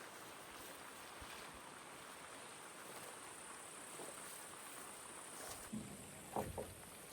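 Faint steady high-pitched chirring of insects in grass, with a few short knocks near the end.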